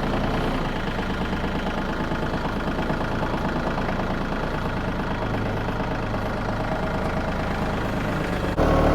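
Bad Boy 4025H compact tractor's diesel engine running steadily; near the end the sound abruptly jumps louder.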